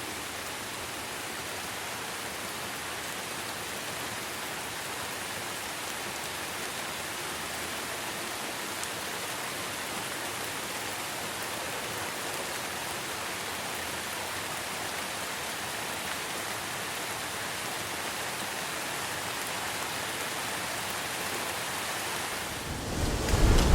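Steady rainfall, an even hiss of many drops. About a second before the end a loud, low rumble of thunder begins.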